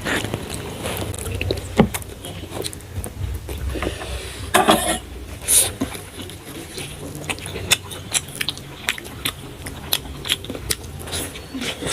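A person eating instant noodles close to the microphone: chewing, with many small clicks, and two short louder sounds about halfway through.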